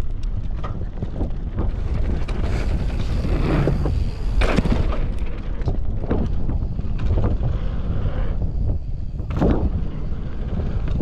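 Wind buffeting the microphone and mountain bike tyres rumbling over a dirt trail on a fast descent. Frequent knocks and rattles come from the bike hitting bumps.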